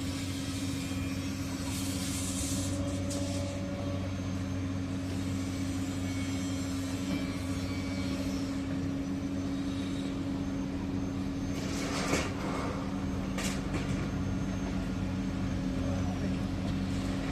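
A heavy machine's engine running steadily at one speed, with a few short hisses from air or hydraulics.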